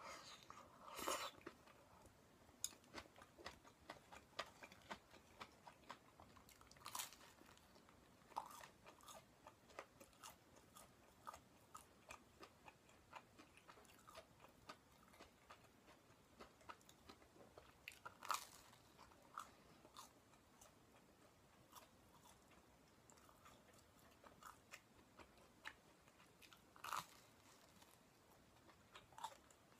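Quiet close-miked eating of stir-fried vegetables and toast: steady chewing with many small wet mouth clicks, broken by a handful of louder bites and crunches, one about a second in and others spread through.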